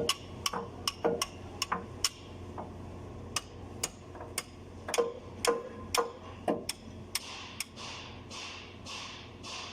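Hand tools working on metal machine parts: irregular sharp metallic clicks and taps, some ringing briefly. About seven seconds in they give way to softer, even scraping strokes about twice a second.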